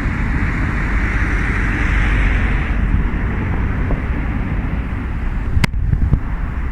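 Wind buffeting the microphone outdoors in a snowstorm: a steady, loud rumble with a hiss that eases off about halfway through. A single sharp click comes near the end.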